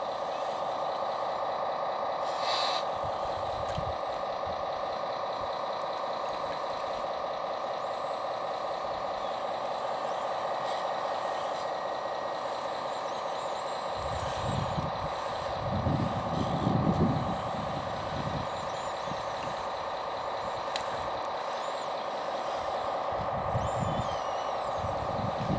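Steady whine of a small electric motor and gear drive in an RC scale model machine. Low rumbles come in short bursts a little past the middle and again near the end.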